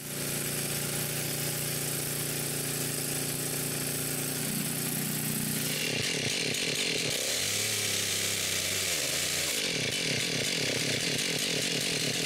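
Chainsaw running while cutting down a tree. Its engine note is steady at first, then from about halfway through its pitch dips and rises repeatedly as the chain loads and frees in the cut.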